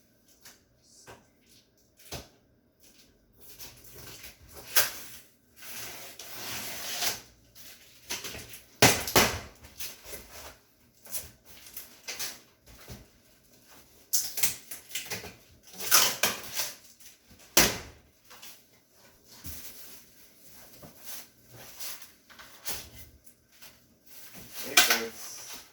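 Irregular knocks, scrapes and rustles of a cardboard microwave box being opened and its styrofoam and wrapping-paper packing handled.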